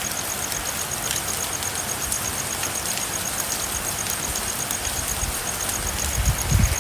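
Steady rain falling, with a high-pitched call pulsing evenly about five times a second throughout. Low rumbling swells in near the end.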